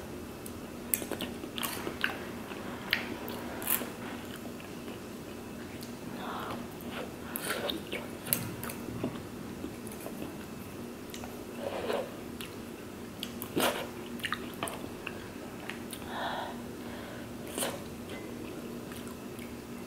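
Close-up chewing and mouth sounds of someone eating tteokbokki, chewy rice cakes in sauce, with scattered short clicks of metal chopsticks and spoon against a stainless steel pan. A faint steady hum runs underneath.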